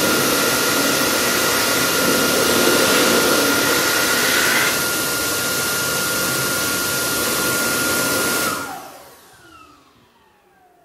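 Electric hand dryer running at full speed: a steady rush of air with a high motor whine, dipping slightly in level about four and a half seconds in. Near the end it switches off and the motor spins down with a falling whine.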